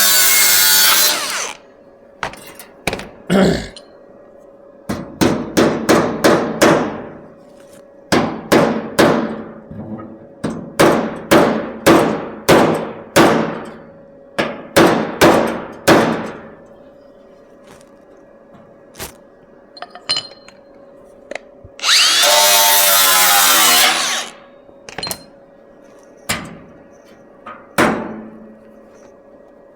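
MIG welder laying a quick series of about a dozen short tack welds into a car's sheet-metal fender, each a brief burst. A power tool runs for about two seconds at the start and again about two-thirds of the way through.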